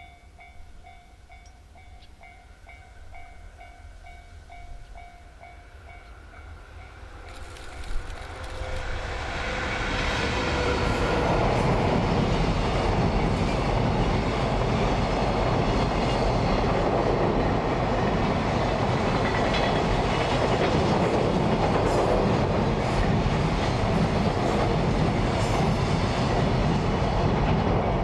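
A JR Freight EF81 300-series electric locomotive and its train passing. The approach is faint at first, then swells about eight seconds in to a loud, steady rumble and clatter of wheels on the rails.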